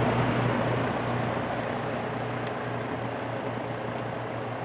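Vintage General Electric F15W13 box fan running on high: a steady rush of air over a low motor hum, easing a little over the first couple of seconds. The fan is still coming up to its full operating speed.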